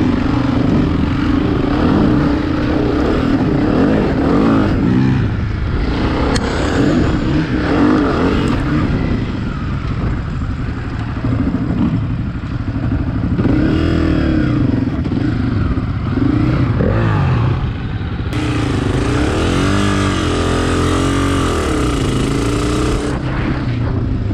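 Dirt bike engine under way on a trail, its pitch rising and falling over and over as the throttle is opened and closed and gears change. A loud rushing noise joins in for several seconds near the end.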